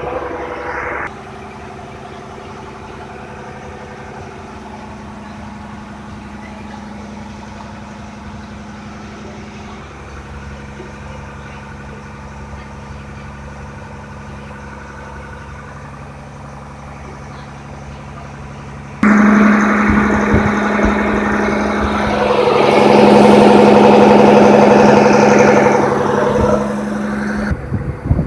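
Boat engine running with a steady droning hum. It gets much louder about two-thirds of the way through, then drops off abruptly near the end.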